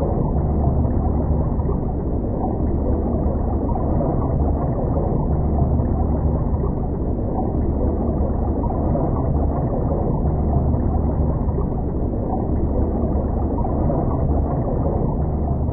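Wind blowing across the microphone: a steady low rushing noise with no breaks.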